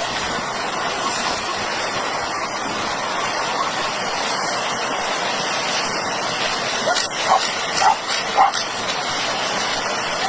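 Zebra giving three short barking calls in quick succession about three-quarters of the way through, over a steady rushing noise.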